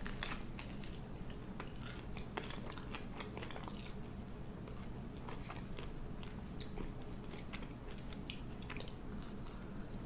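Close-miked chewing and crunching of a fried pork egg roll, with many short crisp crackles from the wrapper, over a low steady hum.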